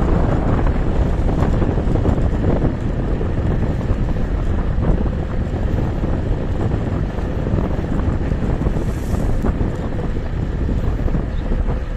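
Wind buffeting the microphone during a ride on a KuKirin G2 electric scooter: a loud, steady rush heavy in the lows.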